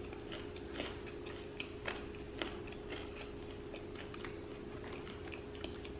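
A person chewing fried fast food close to the microphone, with irregular small wet clicks and crunches, over a steady low hum.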